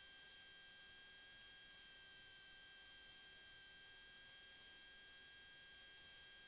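Electronic whine in the recorded audio: a high tone that drops sharply and then glides back up, repeating about every second and a half, over a faint steady hum. No engine sound comes through.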